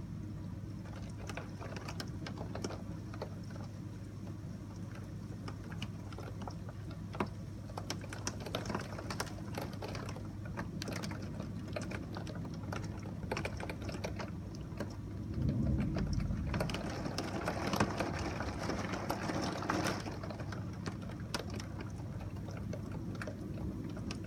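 Rain drops ticking and pattering irregularly against a window, heard from indoors over a steady low hum. A low rumble swells briefly about two-thirds through.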